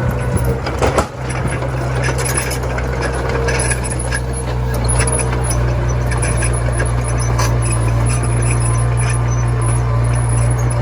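Komatsu mini bulldozer's diesel engine running steadily under load, with scattered metallic clinks and a short jolt about a second in.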